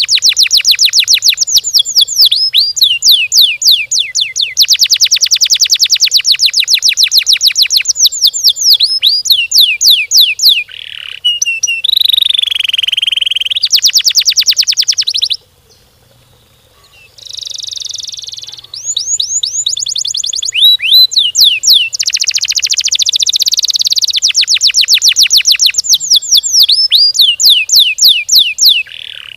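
Domestic canary singing: long rolled trills of rapid, closely repeated down-slurred notes with a few buzzy notes between them, breaking off briefly about halfway through.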